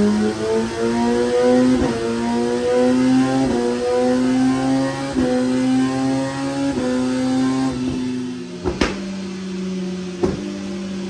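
Inline-four sport bike engine running under load on a dyno, its revs climbing slowly in small steps with a short crack every second or two. About eight seconds in the revs fall back to a lower steady idle, and two sharp snaps follow.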